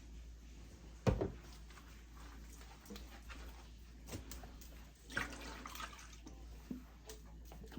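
Water splashing and dripping as a wig is hand-washed, with one sharp splash or knock about a second in.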